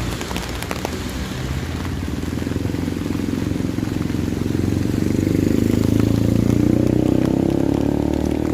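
A motor vehicle's engine running close by in street traffic, getting louder about five seconds in and easing off near the end.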